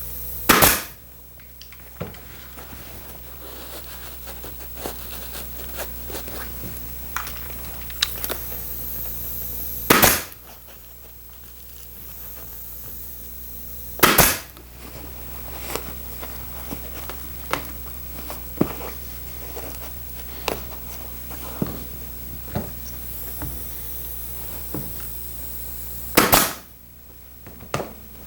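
An upholstery staple gun firing four single sharp cracks at irregular intervals, with lighter ticks and clicks from working the muslin and staples between shots, over a steady low hum.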